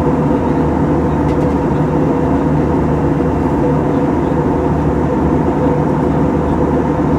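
Airbus A321 airliner in flight: a steady rushing drone of jet engines and airflow with a constant hum, unchanging throughout.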